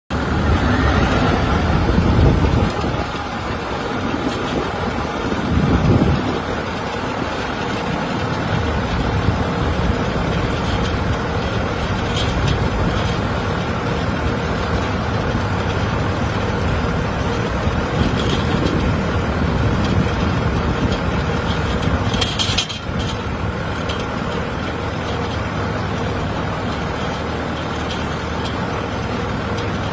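Steady engine noise: a continuous rumble with a faint steady tone above it, swelling louder twice in the first few seconds and briefly dipping about three quarters of the way through.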